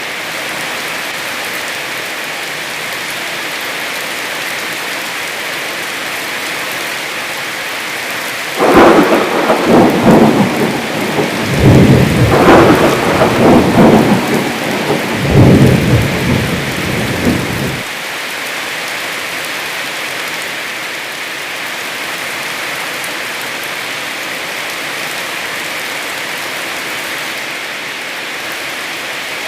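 Heavy rain falling steadily, with a loud rolling peal of thunder that starts suddenly about nine seconds in, swells several times over about nine seconds and cuts off sharply.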